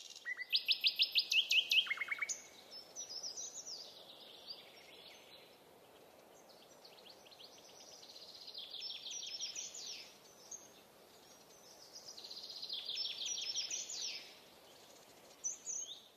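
Songbirds chirping and trilling in quick repeated phrases, loudest in the first two seconds, over a faint steady hiss of outdoor ambience.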